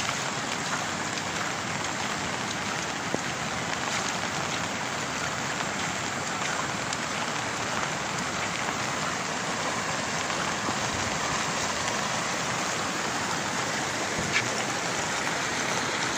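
Steady rain falling, with scattered drops tapping close by and one sharper tap near the end.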